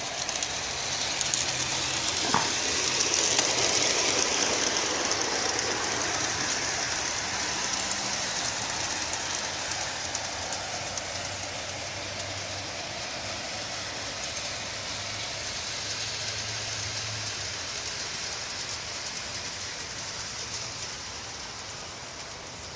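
Garden-railway model train running along its track, its wheels rattling on the rails over a faint motor hum. It grows louder for the first few seconds, then slowly fades as it moves away. It has no sound unit fitted, so there is no steam chuff.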